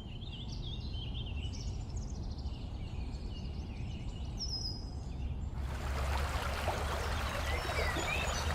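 Swamp or rainforest ambience: scattered short bird chirps and whistles over a low rumble. About five and a half seconds in, a steady hiss of running water joins and stays.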